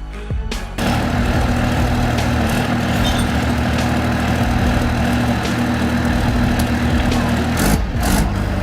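Heavy machine's engine running steadily, a low even hum, until it breaks off near the end.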